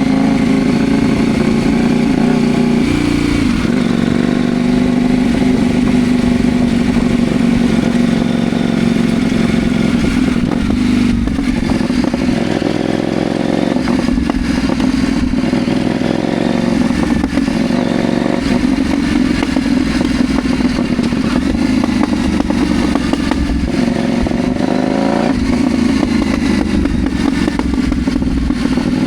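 CFMoto Ibex 800 T parallel-twin motorcycle engine running steadily under way, its pitch shifting a few times with the throttle.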